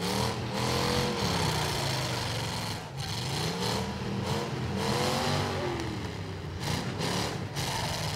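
Engines of several full-size V8 demolition derby cars revving up and down over and over, overlapping one another in a steady engine din.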